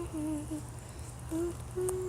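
A person humming a slow tune in short, held notes that step up and down in pitch, with a pause about halfway through. A steady low rumble runs underneath.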